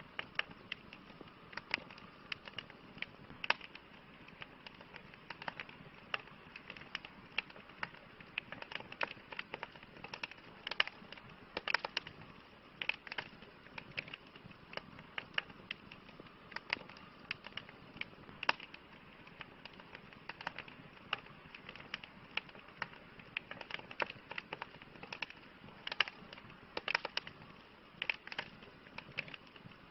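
Wood campfire crackling: irregular sharp pops and snaps, several a second at times, over a steady soft hiss of burning.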